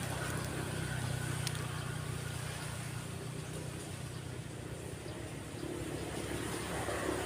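Motorbike and car traffic passing, a steady low engine hum over the wash of waves on the shore.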